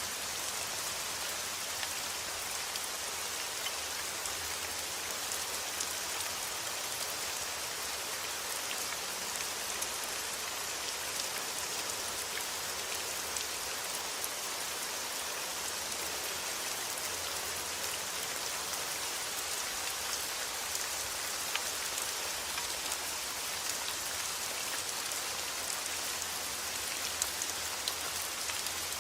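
Steady rain falling: a dense, even hiss of drops with occasional sharper single drop ticks.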